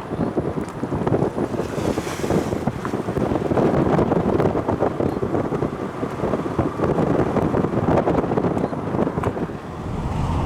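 Wind buffeting the microphone: a continuous, uneven low rumble with gusts, including a brief hissing gust about two seconds in.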